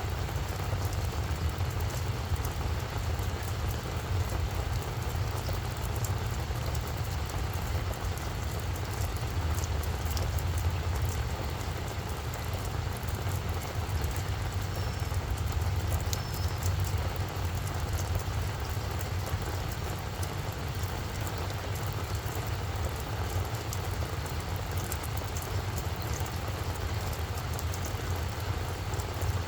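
Steady rain falling on a flower bed, many small drop ticks over a continuous hiss, with a steady low rumble underneath.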